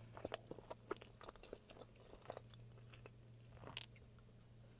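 Close-miked mouth sounds of a person chewing tuna sushi: soft wet clicks, thick in the first second and a half, then scattered, with one louder click near the end.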